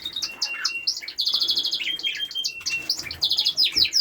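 Several small cage birds chirping and calling over one another, with fast trills of rapidly repeated notes about a second in and again near the end.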